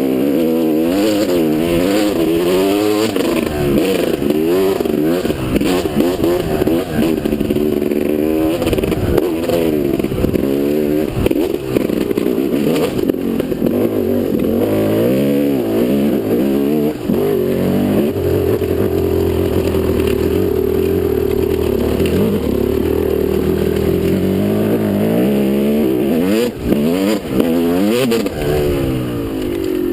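Motocross motorcycle engine running hard, its pitch rising and dropping again and again as it revs up and shifts or backs off. Just past the middle it holds a steadier note for several seconds before the rising and falling resumes.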